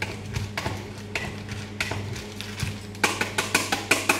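Kitchen handling sounds: scattered clicks and knocks of utensils and dishes, then about a second of quick, repeated scraping strokes near the end, over a steady low hum.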